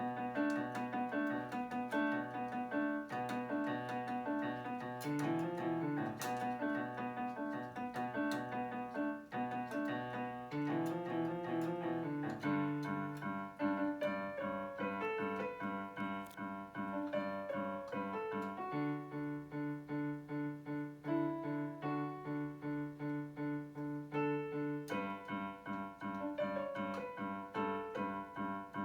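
Electronic keyboard played in a piano voice: a melody over repeated chords and bass notes, starting suddenly at the first note.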